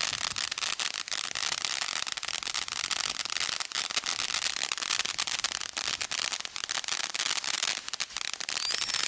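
A firework from the Brothers Pyrotechnics Bonfire Party selection box crackling without a break: a dense stream of rapid small pops over a hiss.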